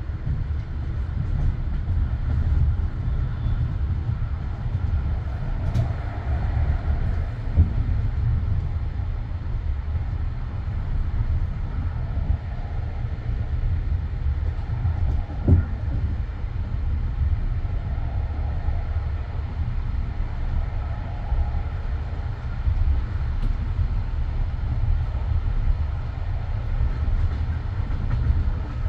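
A passenger train's coach running along the track: a steady low rumble of wheels on rails, with a single sharp knock about six seconds in and another about fifteen seconds in.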